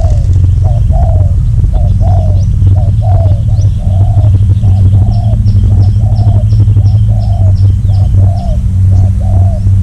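Doves cooing over and over, a short note followed by a longer arched coo. A small bird chirps quickly and high in the middle.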